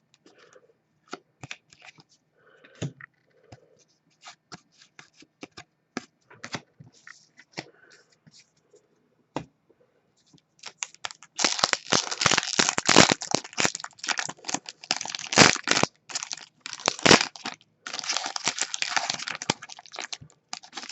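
Faint clicks and soft handling of trading cards, then, about eleven seconds in, loud sustained crinkling and tearing as a foil hockey card pack wrapper is ripped open.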